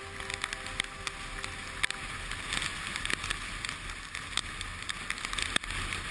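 Wind noise on the microphone over a low rumble, with many scattered sharp clicks and crackles.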